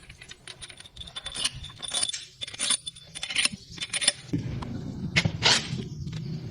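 Small metal parts or hand tools clinking and clicking in quick, irregular taps. A low steady rumble comes in about four seconds in, with louder knocks over it.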